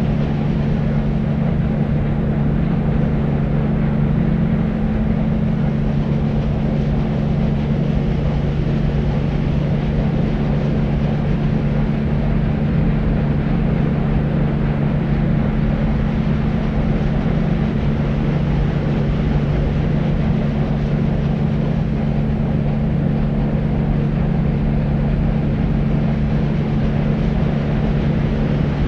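Deep white noise: a steady, unchanging rush weighted toward the low end, with a steady low hum running through it and little hiss on top.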